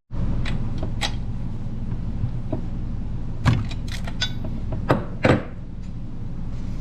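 A few sharp metallic clicks and knocks from tools and parts being handled on a Husqvarna 345 chainsaw while the spark plug is got out for a spark check, over a steady low hum.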